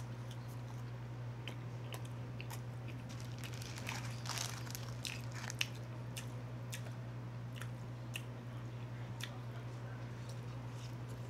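Close-up eating sounds of a person biting and chewing chicken wings and fries: scattered wet mouth clicks and crunches, thickest about four to five seconds in. A steady low hum runs underneath.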